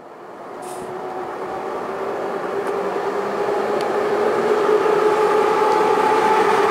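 A train approaching, its rumble and a steady hum of several tones growing steadily louder.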